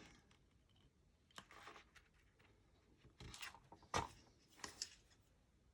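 Faint, scattered handling sounds of paper being glued and pressed together: a few soft rustles and light clicks, mostly in the second half.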